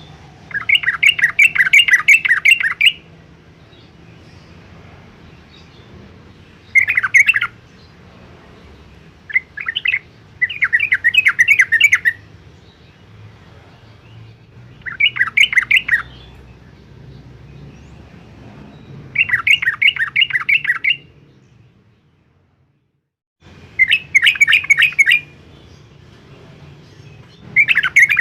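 Yellow-vented bulbul (trucukan) singing: about eight short phrases of fast, bubbling, liquid notes, each lasting one to two seconds, with pauses of a few seconds between them. A low hum runs underneath, and the sound cuts out completely for about a second and a half near the end.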